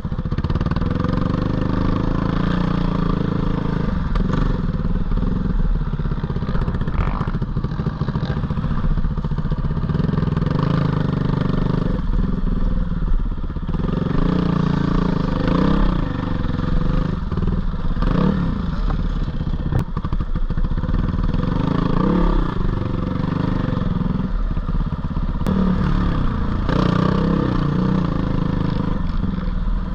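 GPX 450R single-cylinder four-stroke dirt bike engine running under riding load, its pitch rising and falling over and over as the throttle is opened and closed, with more frequent revs from about halfway through.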